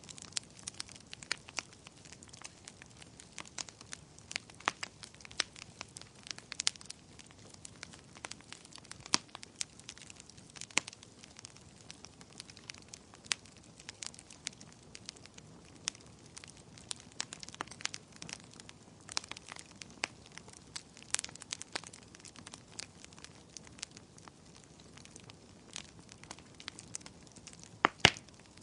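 Fireplace fire crackling: irregular sharp pops and snaps, several a second, over a soft steady hiss, with one louder pop near the end.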